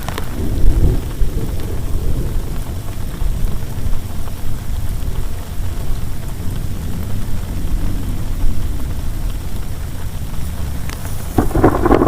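Heavy rain falling with a deep, rolling rumble of thunder underneath; the rain swells louder about a second before the end.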